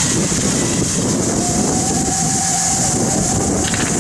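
Fireworks display heard as a dense, steady rumbling noise of bursts, with a faint steady tone through the middle.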